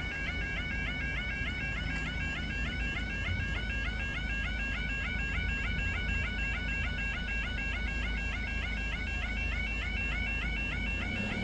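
Level crossing yodel alarm sounding continuously in a rapid, repeating warble, kept on because the crossing has failed with its barriers stuck down.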